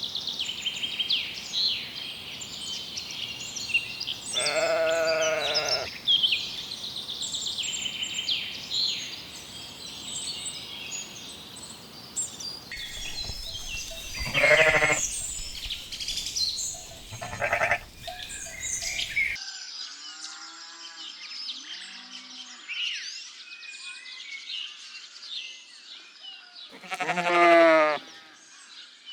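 Sheep bleating, about four long wavering calls with fainter ones between, the loudest near the end, over steady bird chirping.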